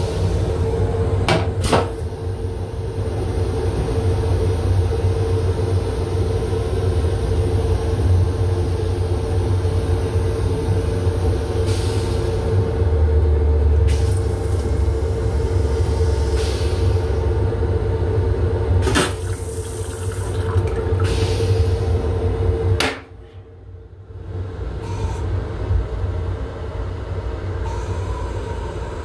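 Running noise of a Metro-North M7 electric railcar heard inside its small restroom: a steady low rumble with a steady hum, and a few sharp clacks. About two thirds of the way through, the noise cuts out suddenly for about a second, then comes back.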